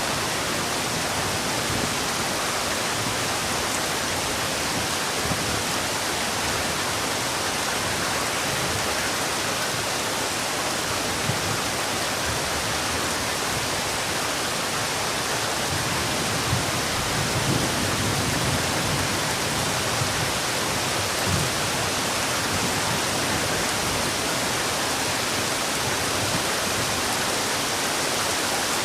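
Heavy rain falling steadily, a dense even hiss with a few soft low thumps of drops on a surface.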